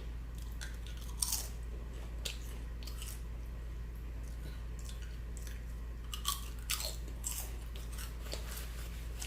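A person chewing and biting food close to the microphone, with scattered short crunchy crackles every second or so.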